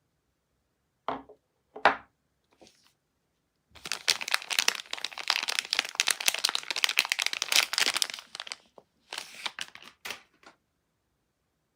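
Soap wrapping crinkling as a bar of soap is unwrapped by hand: two short rustles, then about five seconds of continuous crackling crinkle, then a few brief rustles near the end.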